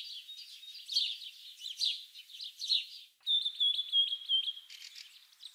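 Birdsong: high-pitched chirps and twitters, then a brief cut-off about three seconds in, followed by a quick run of clear whistled notes and more rapid chirping.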